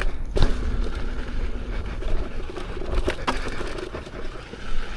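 Electric unicycle ridden down an offroad dirt trail: steady rumbling noise of wind and riding, with a few sharp knocks from the trail.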